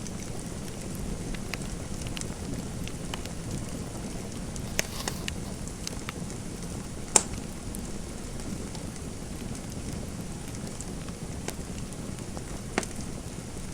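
Fireplace fire crackling: a steady low hiss with scattered sharp pops, the loudest about seven seconds in.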